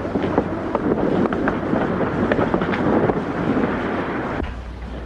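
A crowd of men murmuring and talking over one another, cutting off abruptly near the end to a faint hum.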